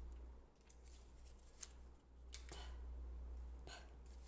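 A few faint clicks and rustles of cards being handled and placed on a board, over a low steady hum.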